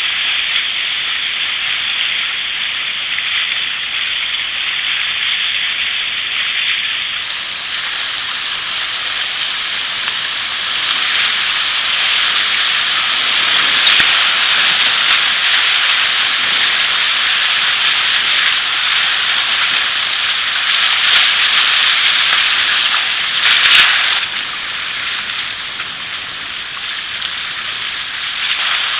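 River water rushing and splashing around a kayak on a fast-flowing river, a steady hiss of moving water, with a brief louder splash near the end.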